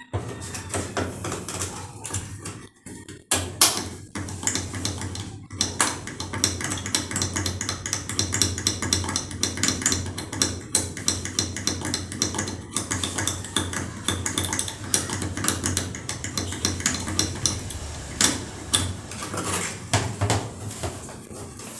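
Rapid, continuous clicking and scraping of metal tools on metal parts over a steady low hum.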